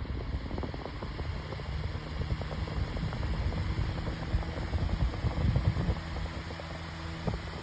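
Better Homes and Gardens 12-inch retro table fan running on its high speed setting: a steady rush of moving air over a low motor hum.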